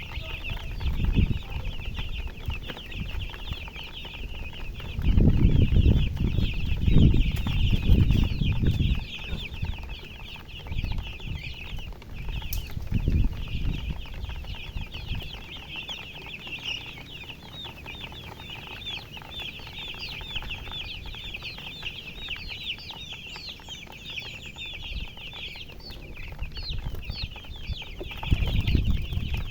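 A brood of baby chicks peeping continuously: many rapid, overlapping high-pitched chirps. Low rumbles break in about a second in, for several seconds from about five seconds in, and again near the end, louder than the peeping.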